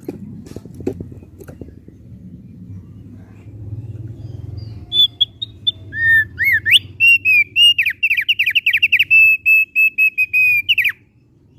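Thick-billed heleia (opior paruh tebal) singing loudly from about five seconds in: clear whistled notes that break into rapid trills, then a fast run of repeated notes ending in a short downward slur. Before the song there are a few clicks over a low hum.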